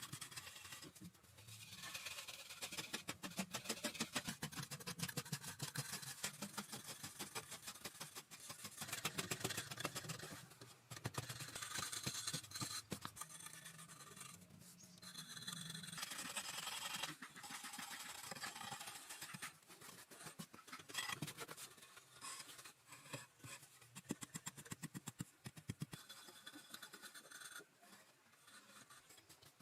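Rapid scratching and scraping strokes in spells of a few seconds, with short pauses between them.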